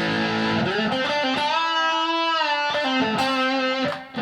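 Electric guitar played through a Blackstar ID:Core 40 combo amp on a high-gain, distorted setting. A few chords give way to a long sustained note that is bent up and back down in the middle, followed by more struck notes near the end.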